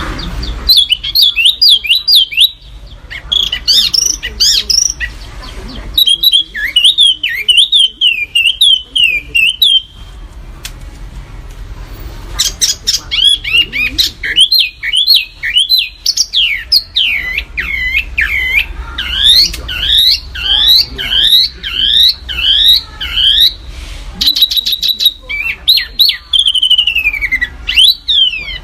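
Songbird singing bouts of rapid, sharp whistled notes that sweep up and down in quick succession, broken by a longer pause about a third of the way in. This is the sharp, dense 'tembakan' song used as a master recording for training caged songbirds.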